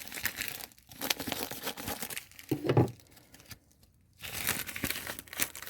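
Plastic parcel packaging crinkling as a small mailing bag is handled and opened, with a short quiet pause a little after the middle.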